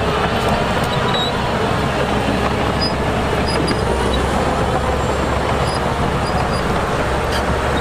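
Heavy diesel earthmoving machinery running steadily under load, a deep engine drone with dense mechanical noise.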